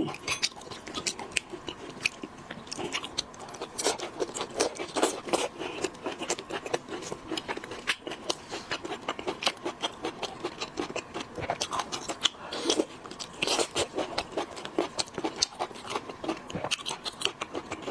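Close-up eating sounds of boiled shellfish: a dense, irregular run of crackling clicks and crunches as shells are broken and the meat is chewed, with louder bursts of cracking a few times.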